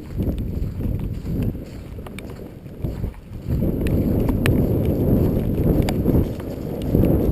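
Strong wind buffeting the microphone, a rough low rumble that grows louder about halfway through, with a few faint clicks over it.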